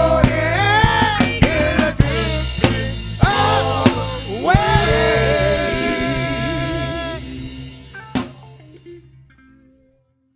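Gospel band playing the close of a song: singing voices over drum kit, bass and electric guitar, ending on a long held chord that dies away, with one last drum hit near the end as the sound fades out.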